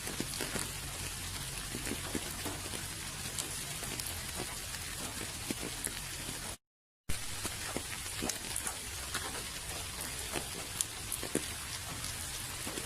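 Steady rain falling, with many individual drops striking close by as distinct sharp ticks over an even hiss. The sound cuts out to silence for about half a second midway, then resumes.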